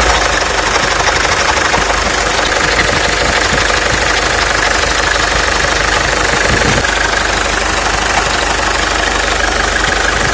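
Mercedes-Benz OM 604 four-cylinder diesel engine idling steadily with a fast knocking and rattling. The owner traced this knock to the vacuum pump, whose bearings had broken apart.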